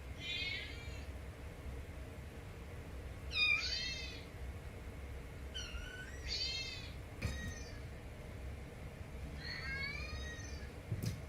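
Kitten meowing repeatedly: about five short, high-pitched meows a second or two apart, with a couple of faint knocks between them.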